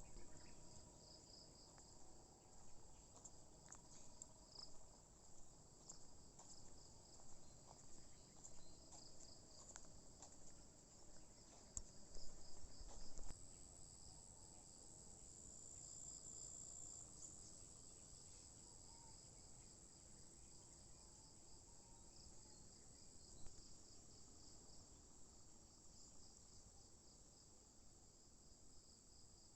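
Faint chorus of insects chirring outdoors: a steady high trill with a faster pulsing chirp beneath it. A few brief low bumps come near the middle.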